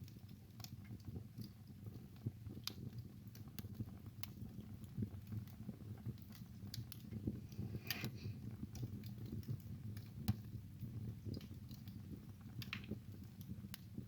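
Wood fire crackling in a fireplace: a steady low rumble of burning with irregular sharp pops and snaps, a small cluster of them about eight seconds in.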